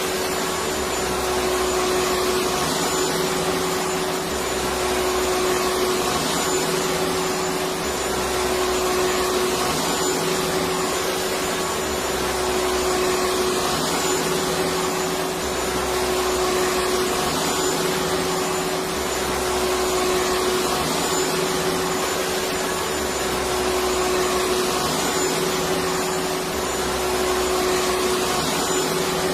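Electric vacuum cleaner running steadily: a continuous rushing hiss with a steady hum-like whine, under a low rumble that swells and fades about every three and a half seconds.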